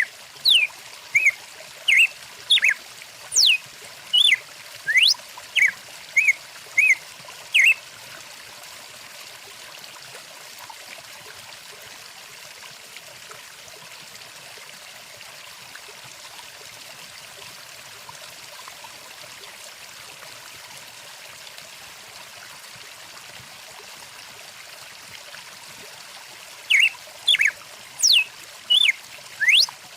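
A bird calling loudly in a series of short whistled notes and quick rising and falling glides, about one to two a second, over the steady rush of a flowing stream. The calls stop about eight seconds in, leaving only the stream, and start again a few seconds before the end.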